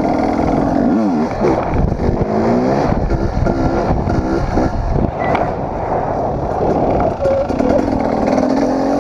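Dirt bike engine being ridden hard, its pitch climbing and dropping several times in quick succession through the middle as the throttle is worked, steadier before and after. Heavy low rumble of wind on the microphone underneath.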